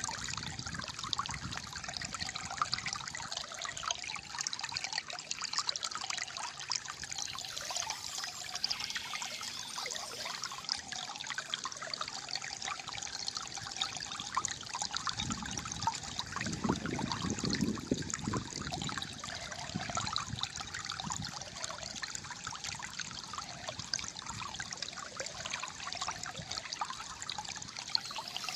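Shallow flowing water trickling and gurgling steadily, with a deeper gurgle for a few seconds around the middle.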